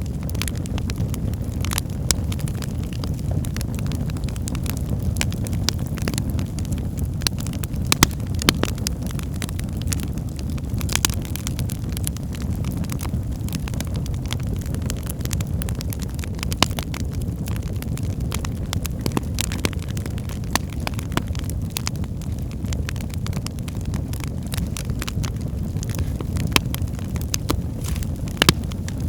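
Wood fire burning in a fireplace: a steady low rumble of the flames with irregular sharp crackles and pops from the burning logs, a few louder snaps among them.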